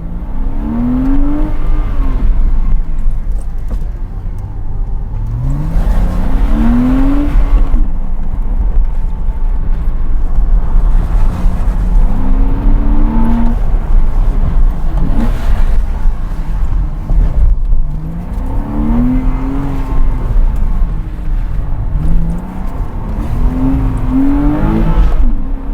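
Porsche Cayman 987's 2.7-litre flat-six engine driven hard, its revs climbing and dropping again about five times as it accelerates, brakes and turns, over a heavy steady low rumble.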